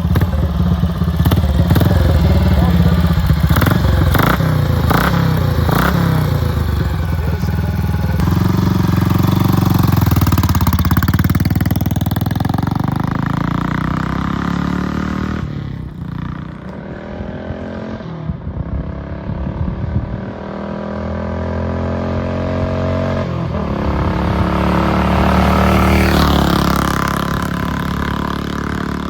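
1956 BSA Gold Star DB34's single-cylinder engine running loudly, the pitch rising and falling as it revs. Past the middle the revs drop sharply several times and climb again each time.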